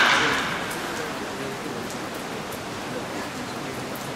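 Rain drumming steadily on the roof of an indoor batting facility. In the first half second the noisy sound of a batting-practice hit fades out.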